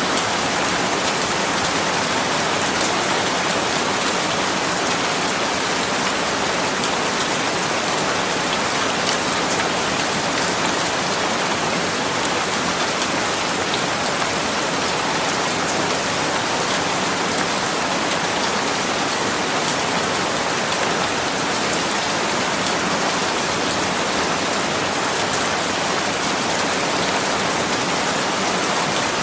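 Steady rain falling, an even hiss of many drops hitting a surface, with no change in intensity.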